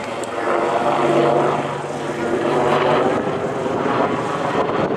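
Apache attack helicopter in a rapid descent, its rotor blades beating in a fast, loud chop. A steady low hum rises under the chop about a second in and fades out a couple of seconds later.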